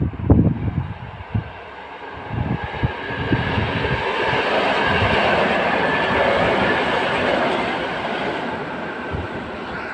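Electric multiple unit passing: its rumble and wheel clatter build from about two seconds in, are loudest midway as it goes by, and fade toward the end. A few low thumps near the start.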